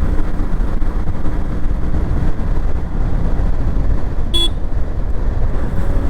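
Steady low rumble of wind and engine noise from a motorcycle in motion, with one short vehicle horn toot about four seconds in.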